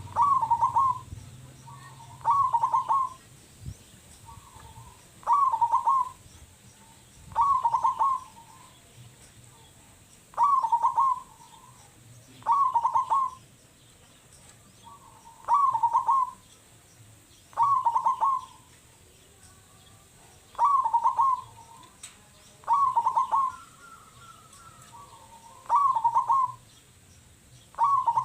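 Zebra dove (perkutut) cooing: a short phrase of quick coos repeated about every two and a half seconds, a dozen times over.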